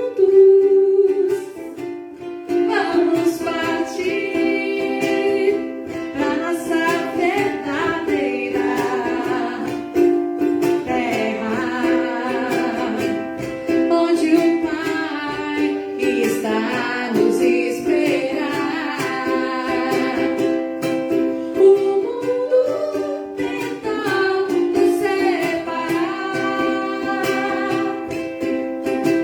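A voice singing a slow devotional song over a plucked string instrument accompaniment.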